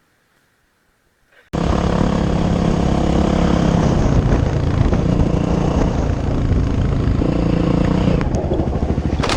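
Enduro motorcycle engine running hard, starting abruptly about a second and a half in after near silence.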